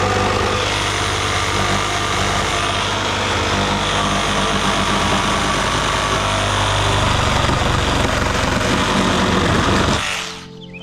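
An engine running steadily at a low, even speed, cutting off abruptly near the end.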